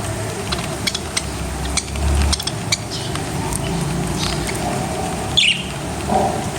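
Small pet birds, such as lovebirds, giving a few short falling chirps among scattered clicks and scratching, over a steady rustling hiss.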